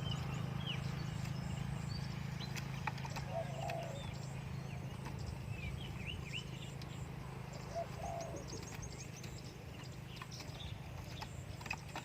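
Spotted dove cooing, two short low coo phrases about four seconds apart, with small birds chirping high above and a steady low hum underneath.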